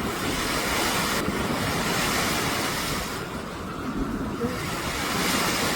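Steady rushing noise of waves, with wind buffeting the microphone.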